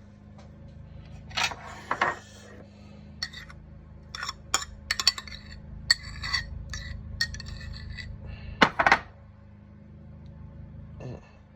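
Metal utensils clinking and scraping against dishes and containers: a string of sharp clinks, some ringing briefly, with louder knocks about a second and a half in and again near nine seconds, over a steady low hum.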